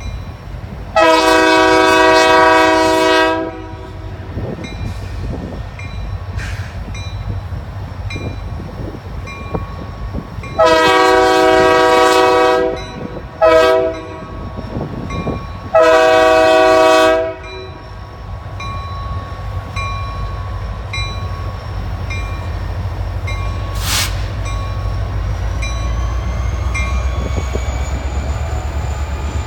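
Diesel freight locomotive's air horn sounding the grade-crossing signal: two long blasts, a short one, then a long one. Under it is the low rumble of the train, which grows louder near the end.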